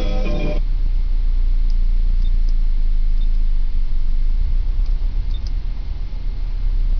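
Saab 900's engine idling, heard inside the cabin as a steady low rumble, with a few faint scattered clicks from the stereo's controls being worked. Guitar music from the car stereo cuts off about half a second in.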